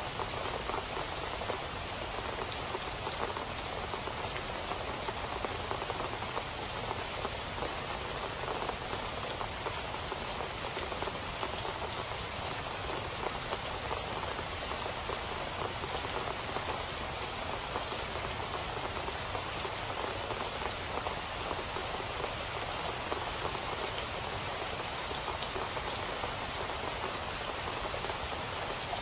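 Steady heavy rain splashing into standing water on a flat surface, a dense, even patter with no let-up.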